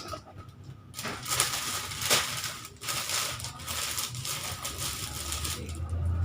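Plastic snack packets crinkling and rustling as they are handled and packed, with a few sharper crackles about one and two seconds in.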